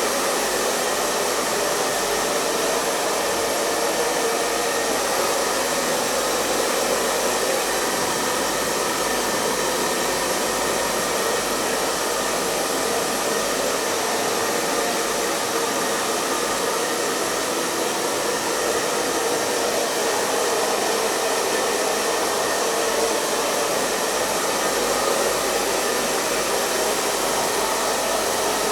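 Hair dryer running steadily: a constant rush of blown air over the motor's hum, with no change in speed or pitch.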